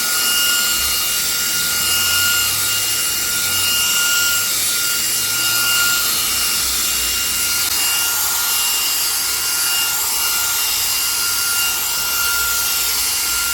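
REIKIYA HV-C11 cordless mini handheld vacuum running on its lowest suction level: a steady high motor whine over a rush of air, as it cleans dust from a computer keyboard.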